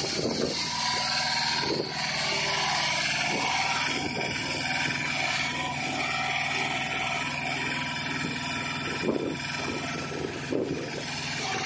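Mini excavator engine running steadily, with a steady high whine over it and scattered short knocks.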